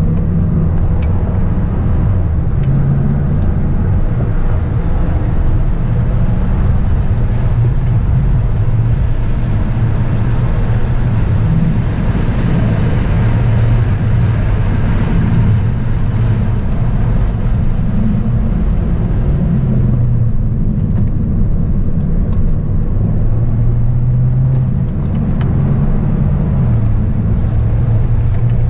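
Volkswagen Golf Variant driven hard on a track, heard from inside the cabin: a steady engine note that rises and falls in pitch with throttle and gear changes, over tyre and wind hiss that swells about halfway through.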